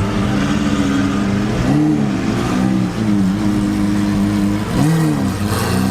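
Sports car engine running at idle, its pitch rising and falling back a few times with short revs.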